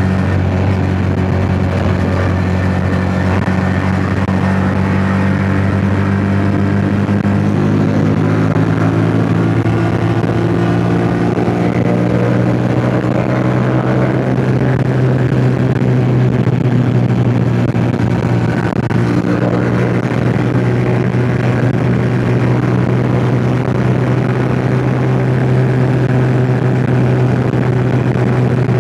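Yamaha MT-07's parallel-twin engine running steadily while the bike is ridden. Its pitch rises a little from about eight to fourteen seconds in, then holds, with wind rushing over the microphone throughout.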